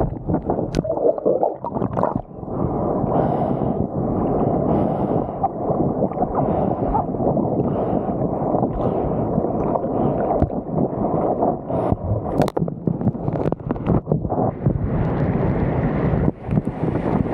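Wind rumbling on the microphone over water rushing and splashing, as from a small motorboat under way, with a few sharp knocks.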